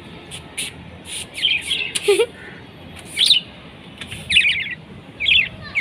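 Small birds chirping in short, quick trills, about seven separate bursts with short gaps between them.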